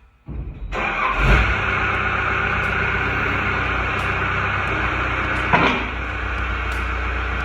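Skid steer engine running steadily under the snowplow attachment, starting suddenly in the first second, with a brief louder surge about a second in and another near five and a half seconds.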